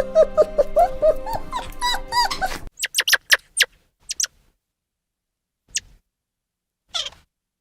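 Dog whimpering in short repeated cries over a steady music bed, which cuts off about two and a half seconds in; then a handful of brief, sharp, high yelps with gaps of silence between them.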